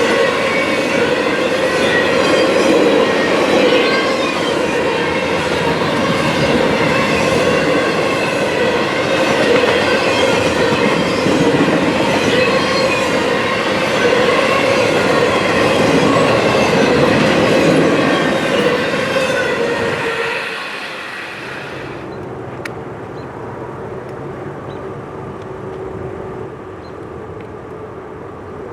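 Railroad cars rolling past close by, wheels clattering on the rails with high, ringing tones over the rumble. About twenty seconds in the end of the train goes by, and the noise drops to a much quieter steady hum.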